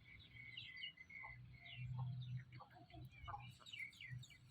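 Baby birds peeping: many short, rapid, falling cheeps, fairly faint.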